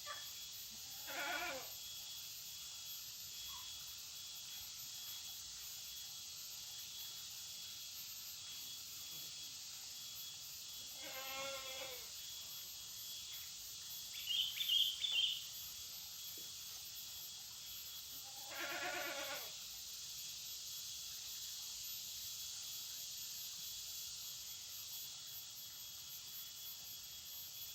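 Baby birds chirping: a quick burst of high peeps about halfway through, the loudest sound. Three separate lower, drawn-out pitched calls come near the start, before and after it.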